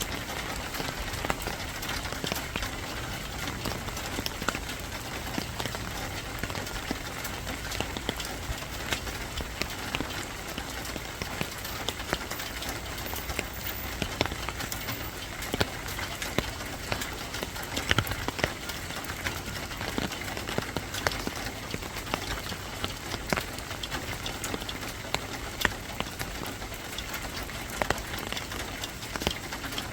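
Steady rain falling, with many sharp, irregular drop hits on a hard surface.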